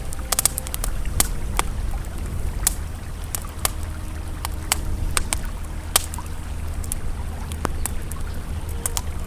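Campfire crackling, with sharp irregular pops every fraction of a second, over the steady low rush of a flowing river.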